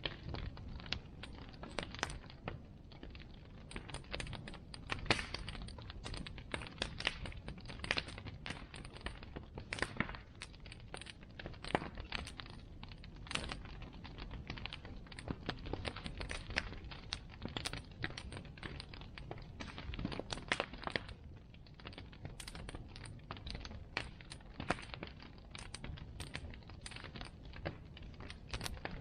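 Wood fire crackling: irregular sharp pops and snaps, several a second, over a low steady rush of burning.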